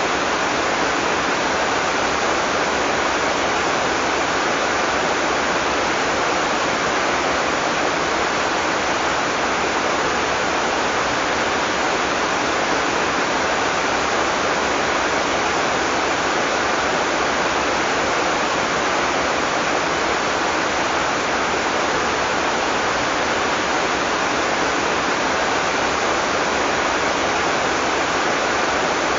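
Heavy tropical rain falling steadily, a dense, even hiss without thunder.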